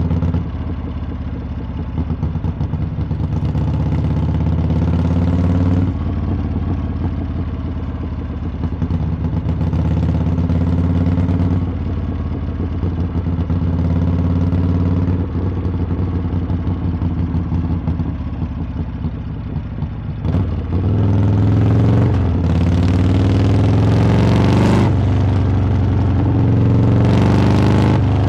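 Harley-Davidson V-twin motorcycle exhaust under way, the engine note rising and easing with the throttle every few seconds. About two-thirds of the way through it drops briefly, then climbs hard several times in a row, each rise cut short by an upshift.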